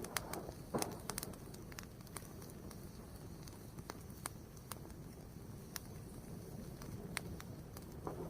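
Fire burning with a steady low rustle and sharp crackling pops: a quick cluster of pops in the first second, then single pops every second or two.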